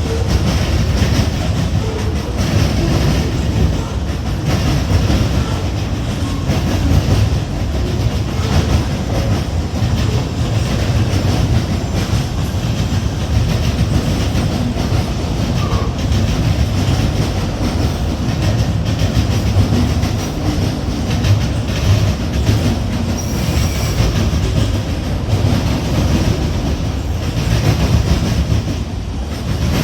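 Freight train cars rolling past at close range: a steady loud rumble with rapid clicking of wheels over the rail joints and a couple of brief wheel squeals.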